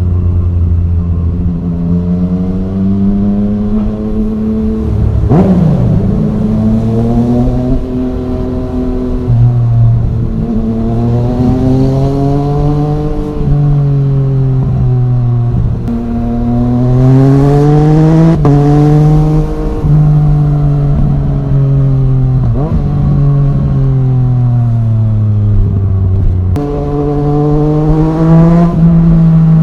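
Yamaha MT-09's 847 cc inline-three running through an Arrow Thunder full exhaust system while riding. It revs up and eases off over and over, with sudden pitch steps at the gear changes.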